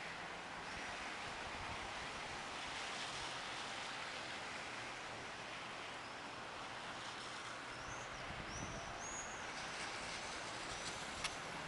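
Steady hiss of distant city traffic, with a few short high bird chirps in quick succession in the second half and a single sharp click near the end.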